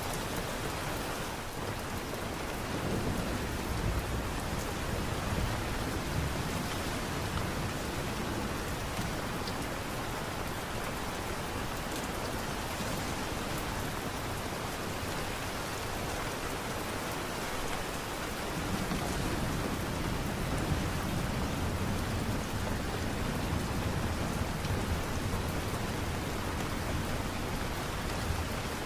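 Steady light rain, an even hiss, with a deeper low rumble in places.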